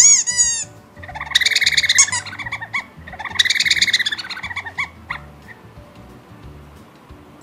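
High-pitched chirping, squeaky sound effect played from a phone prank app. It opens with a quick run of falling chirps, then two separate bursts of warbling squeaks follow, each about a second and a half long.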